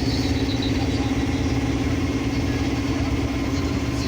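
Engine idling steadily: a constant low rumble with a steady hum above it.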